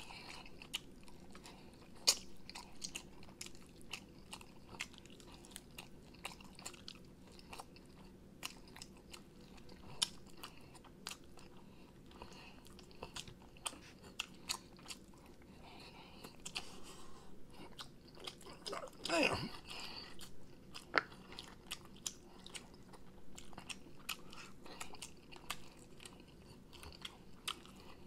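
Close-miked eating of sauced chicken wings: wet chewing, lip smacks and meat being pulled off the bone, with many small clicks. About two-thirds of the way through comes a brief vocal sound from the eater, louder than the chewing.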